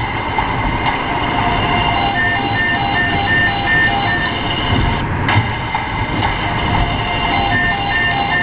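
Steady rush of rain and tyres on a wet road heard from inside a moving car. Twice, a run of quick electronic beeps sounds over it, about three a second for roughly two seconds each time.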